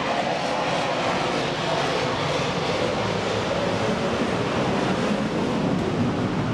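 Airplane engine noise from an aircraft flying in an air show display, a steady loud drone with no clear change.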